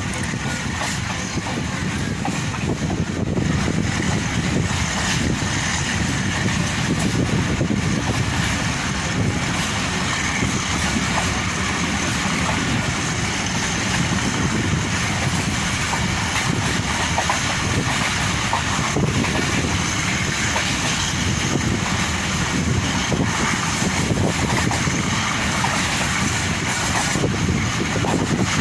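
Passenger train running at speed: a steady rumble of wheels on the track with no clear beat.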